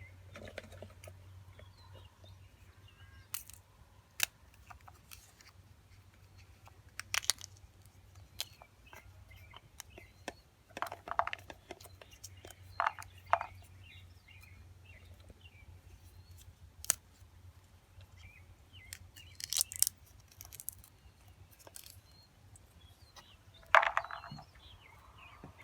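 Irregular crisp snaps and rustles of pea pods being picked and split open by hand, some in quick clusters, over a faint low hum.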